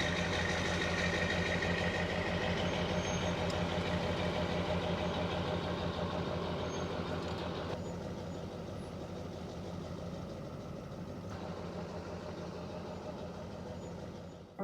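Pickup truck engine running at a steady, unchanging pitch, becoming slightly quieter about halfway through.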